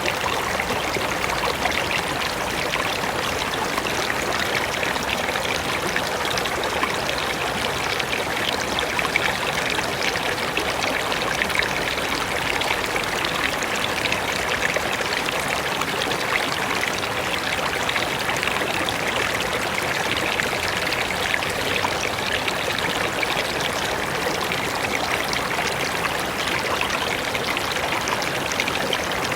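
A mountain river running over rocks: a steady rush of flowing water with fine splashing.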